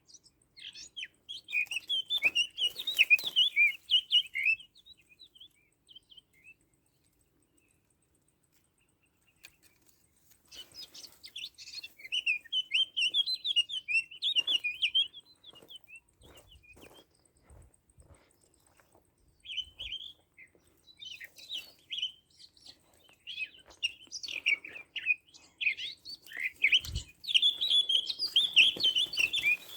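Small songbirds twittering in three bouts of rapid, jumbled chirps with quiet pauses between them.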